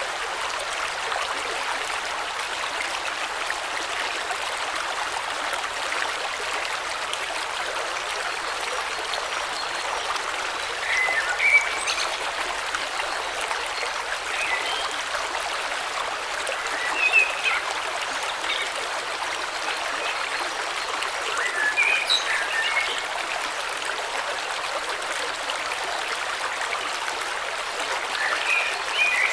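A river flowing steadily, with birds chirping in short bursts a few times, loudest about eleven and seventeen seconds in.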